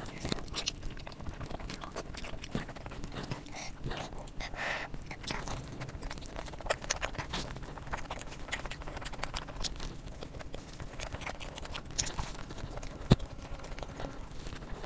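A person eating close to the microphone: chewing and biting with a steady run of short wet mouth clicks and smacks. One sharp click stands out, louder than the rest, about thirteen seconds in.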